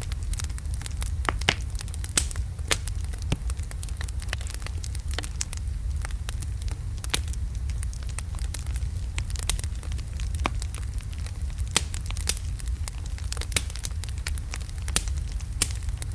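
Wood logs burning in a fireplace: a steady low rumble of flame with irregular crackles and a few sharper pops.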